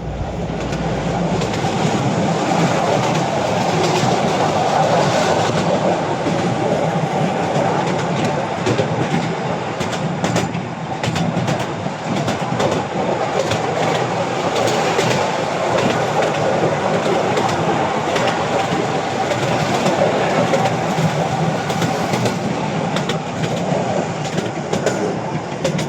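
Narrow-gauge Artouste mountain train running along its track: a steady rumble with many irregular wheel clicks over the rails.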